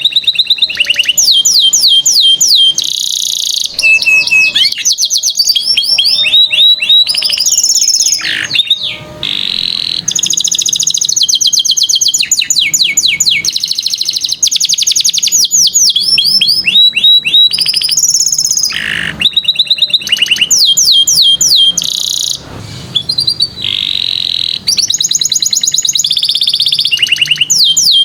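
Domestic canary singing a long, continuous song made of fast trills. Each run of rapidly repeated sweeping notes lasts a second or two, then gives way to a different trill, with only brief breaks between them.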